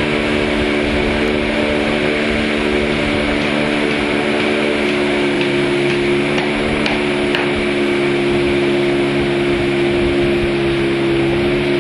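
Boat engine running at a steady speed, with a steady rushing noise underneath. The engine note shifts slightly about five seconds in.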